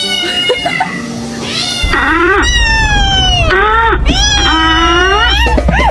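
A cat meowing loudly: a string of long, drawn-out meows, each sliding down in pitch, starting about two seconds in.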